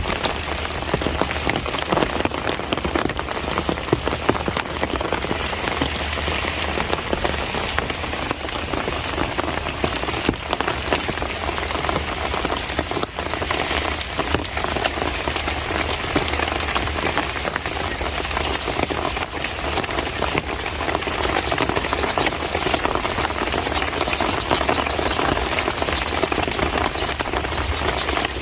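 Steady heavy monsoon rain falling: a dense, even hiss of countless drop impacts with no let-up.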